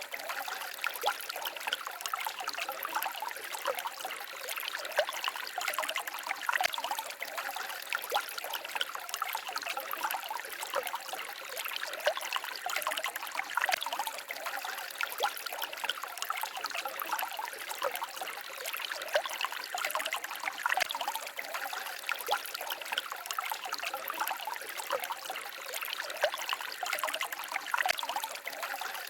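Small stream babbling and trickling steadily, with many small splashes running through it.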